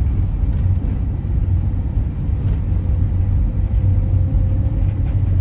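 Steady low rumble of a moving vehicle heard from inside, with a faint steady hum.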